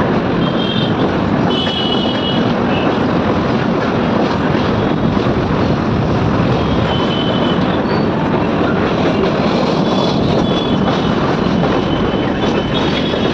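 A train running past at close range: a steady, loud rumble and rattle of wheels on the rails, with short high squeals now and then.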